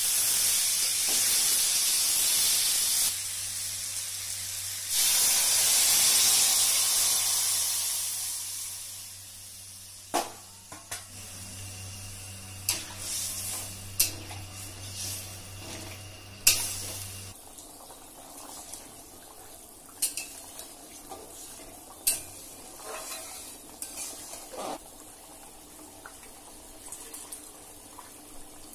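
Pumpkin pieces sizzling loudly in hot oil in a metal wok as they are stirred. The sizzle dies away about eight to ten seconds in, after which a metal spatula clinks and scrapes against the pan every second or two as the pumpkin curry simmers.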